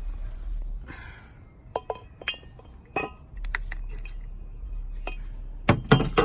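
Stainless-steel exhaust tips being handled, clinking against each other with short metallic rings several times, the loudest clinks near the end.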